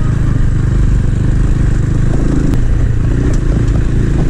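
250 cc motorcycle engine running steadily under way, pulling up a mountain road, with a few light clicks about halfway through.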